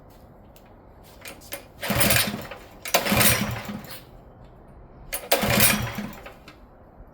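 Small mini bike engine being pull-started with the choke on: three pulls on the recoil starter, each cranking it over briefly without the engine catching and running.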